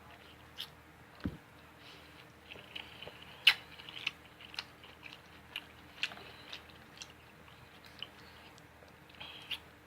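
A person chewing food, with short wet mouth clicks at irregular intervals; the loudest click comes about three and a half seconds in.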